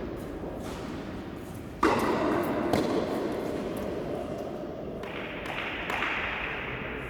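Tennis ball struck by rackets during a rally: a loud sharp hit about two seconds in, another close after, and fainter hits near the end.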